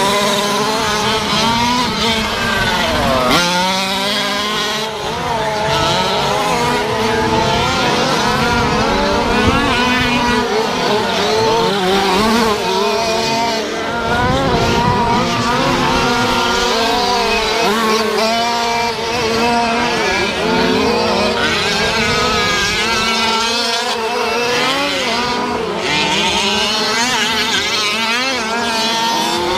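Several 1/5-scale gas RC trucks racing, their small two-stroke engines revving up and down over one another, with a steady hum underneath.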